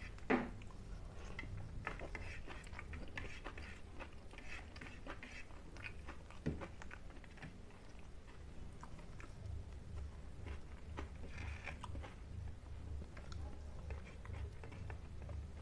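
Close-up eating sounds from someone chewing a mouthful of fish and rice, with scattered small wet clicks. A sharper smack comes near the start and another about six and a half seconds in, over a low steady hum.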